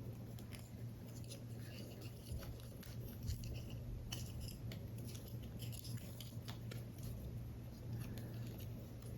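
Scissors cutting paper for a paper model, a run of small irregular snips, over a steady low hum.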